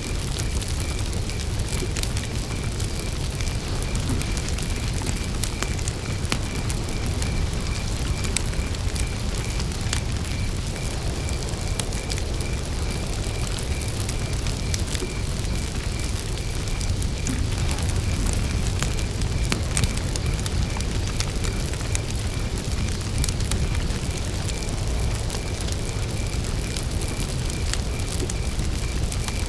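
Campfire burning with wood crackling in scattered sharp pops over a low steady rumble, while a cricket chirps in an even, continuous pulse.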